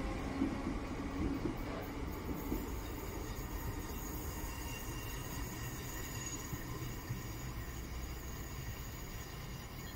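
Merseyrail electric train running on the track: a low rumble with a whine in the first couple of seconds, then a steadier rumble that fades gradually.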